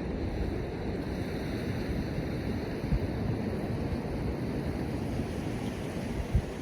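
Surf washing on the beach under wind buffeting the microphone, with a couple of low wind thumps about three seconds in and near the end.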